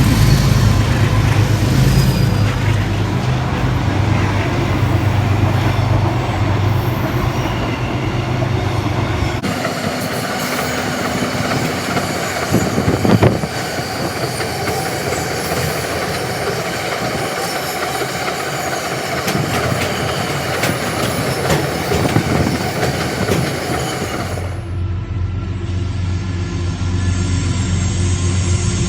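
Freight train passing close by: the locomotive's engine running with a heavy low hum, then the wagons rumbling and clattering over the rails, with some wheel squeal. The sound changes abruptly about a third of the way in and again near the end.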